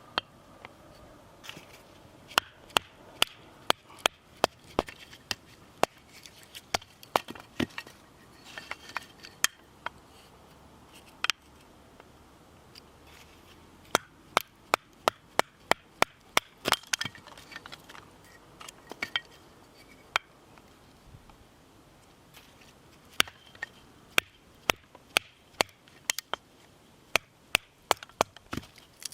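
Chopping: sharp knocks of a blade striking wood, in runs of quick strokes with pauses between.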